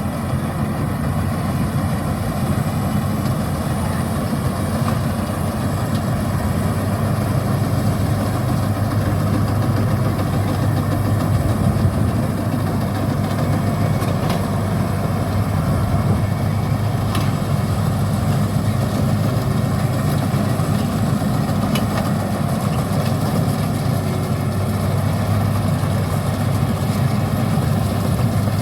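Combine harvester engine running steadily: a loud, even drone with no breaks.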